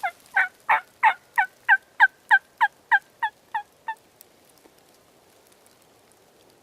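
A run of about a dozen turkey yelps, roughly three a second, each note dropping in pitch, stopping about four seconds in.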